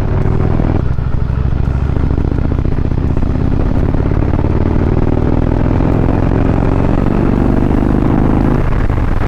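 Indian V-twin motorcycle engine accelerating hard from the rider's seat, with wind rush. Its pitch dips at a shift about a second in, climbs steadily through a long pull, then falls away as the throttle eases near the end.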